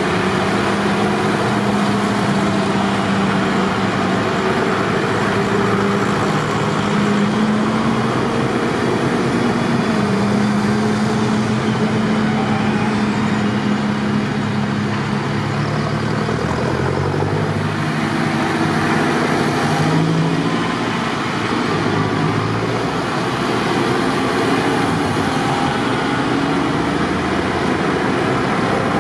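Several tractor engines running together, their overlapping notes drifting up and down in pitch as they throttle and pass.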